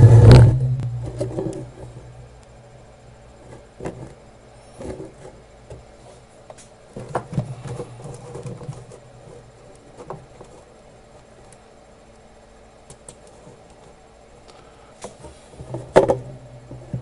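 A loud rubbing, scraping noise that stops about half a second in, then scattered faint taps and clicks of small tools being handled on a workbench over a faint steady hum.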